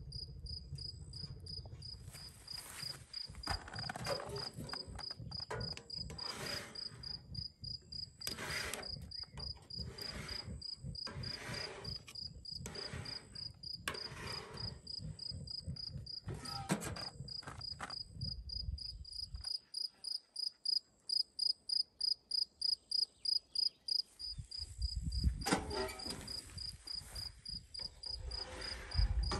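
An insect chirping in a steady, high-pitched pulse, about three chirps a second. Intermittent rustling noise and low rumble come and go beneath it.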